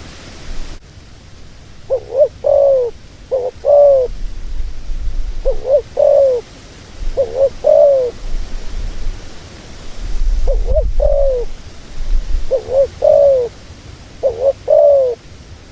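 Dove cooing over and over: short, arching coos in twos and threes every couple of seconds. A low rumble comes and goes underneath.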